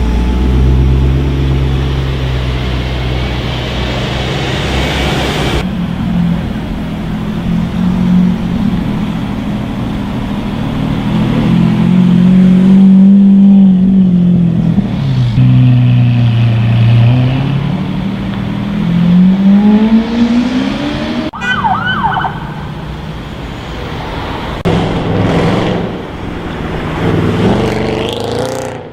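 Sports car engines revving and accelerating, the pitch swooping up and falling back, in several clips that cut abruptly from one to the next.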